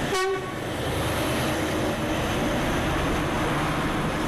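Diesel locomotive and its train passing very close on metre-gauge track, a loud, steady rumble and rattle, with a short horn blast in the first half-second.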